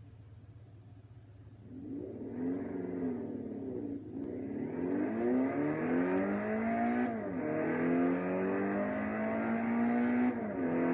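2009 Mini John Cooper Works' turbocharged four-cylinder engine under full-throttle acceleration: after a quiet low hum, the revs climb from about two seconds in, with three sharp drops in pitch as it shifts up through the gears, each gear climbing more slowly than the last.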